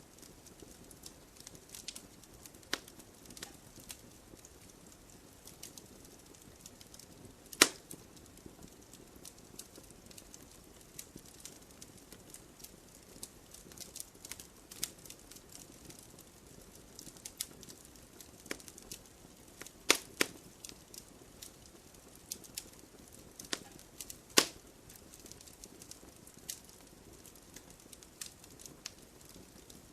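Wood fire burning: a steady low rush with frequent small crackles. Three much louder sharp pops stand out, about a quarter of the way in, about two-thirds in, and about four-fifths in.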